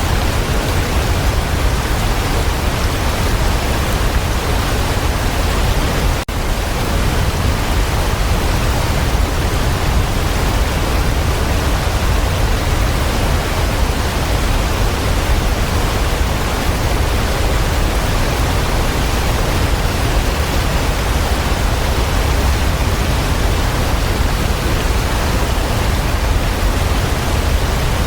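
Waterfall: a steady, dense rush of falling water, heaviest in the low rumble, with a momentary break about six seconds in.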